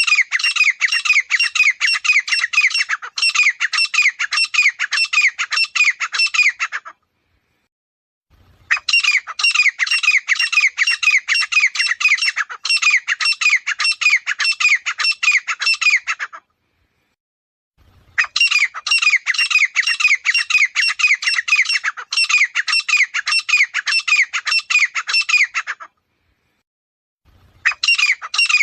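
Grey francolin calling: loud bouts of rapid, repeated high notes, each lasting about seven seconds, with short silent gaps between them. The same bout repeats three times, as in a looped recording.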